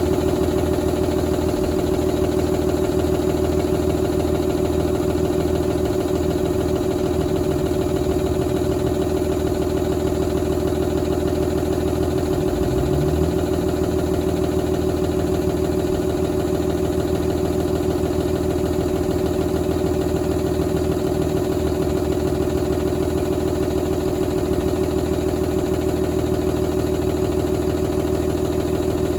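Paccar PX-7 inline-six diesel engine idling steadily, with a slight rise in its note about halfway through.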